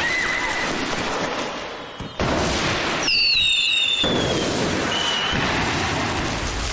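Fireworks going off, a loud hissing rush with high whistles, some of them falling in pitch. It grows louder a little after two seconds in.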